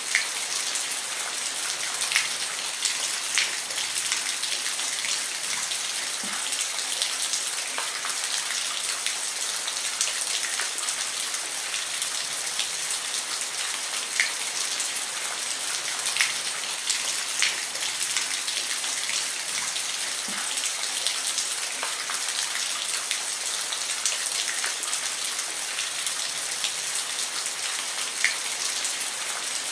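Steady rain falling on a roof: an even hiss with scattered sharper drop ticks every second or two.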